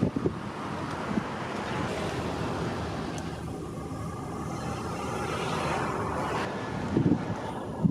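Steady rushing noise of road traffic, with wind on the microphone and a few low buffets near the end.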